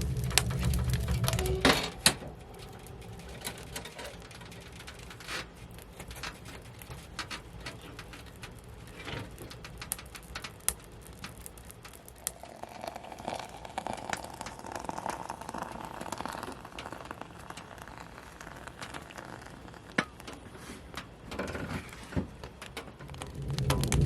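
Wood fire crackling in a wood stove: scattered sharp pops and ticks over a faint hiss. A louder steady low hum stops about two seconds in.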